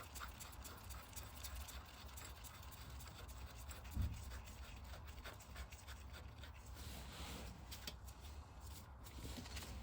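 Faint scattered clicks and light knocks of metal parts and tools being handled, with one dull thump about four seconds in.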